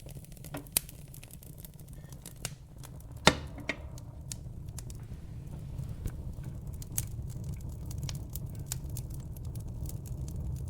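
Wood fire in a fireplace crackling, with many sharp pops and snaps over a steady low rumble of the flames. The loudest pop comes a little over three seconds in.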